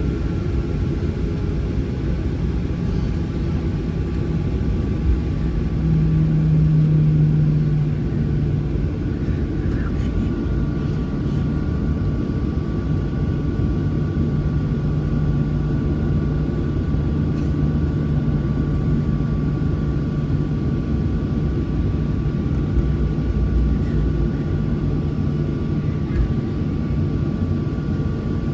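Boeing 737 cabin noise heard from a window seat: the jet engines running at idle, a steady low hum, with a faint steady whine that comes in about a third of the way through, while the aircraft holds on the runway before takeoff.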